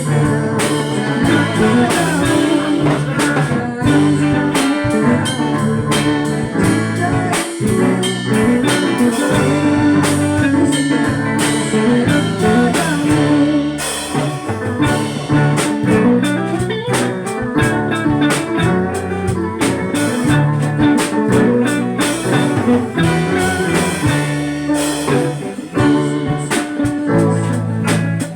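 A band rehearsing: guitar and drum kit playing a song together, with bass notes underneath and steady drum hits throughout.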